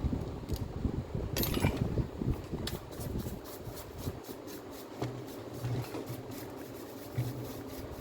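Irregular handling noises: light knocks, clicks and rubbing, with a short scrape about a second and a half in.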